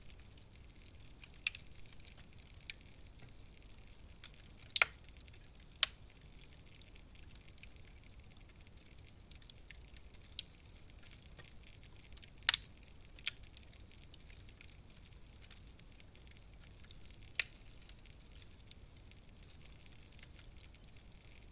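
Wood fire crackling: a soft, steady hiss with sparse, sharp pops and snaps every second or few, the loudest about five and twelve seconds in.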